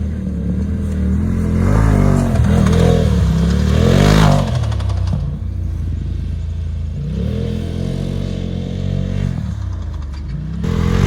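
An off-road vehicle's engine revving in three rising surges, dropping back between them.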